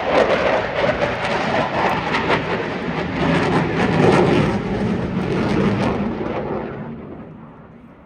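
Eurofighter Typhoon's twin EJ200 turbofan engines making loud, crackling jet noise as the fighter passes, fading away over the last couple of seconds.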